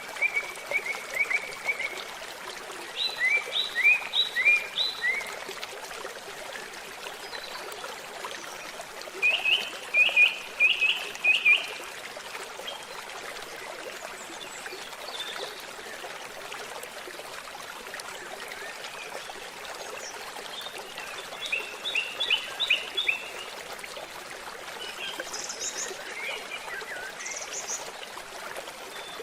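A babbling stream runs steadily while songbirds sing. Their phrases are quick runs of repeated high chirps, coming in several bursts a few seconds apart.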